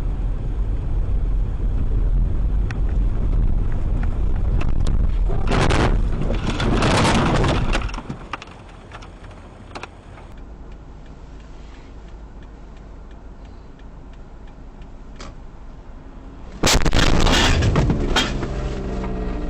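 Vehicle road and engine rumble, with two loud noisy surges about six and seven seconds in. The sound drops away abruptly near eight seconds, and a sudden loud crash-like burst comes in about seventeen seconds in.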